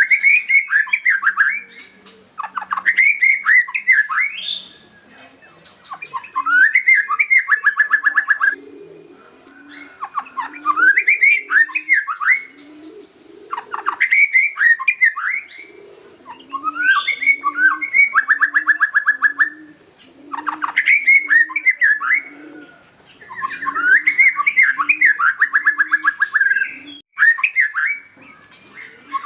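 A young white-rumped shama, just out of its juvenile plumage, singing loud phrases of whistled gliding notes that often end in a fast trill, one phrase every three to four seconds. A dove coos softly and repeatedly in the background, and a steady high tone runs underneath.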